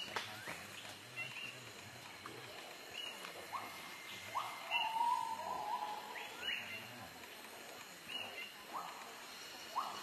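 Birds calling: short rising chirps repeated about once a second, some low and some high, with a longer steady whistled note near the middle, the loudest sound.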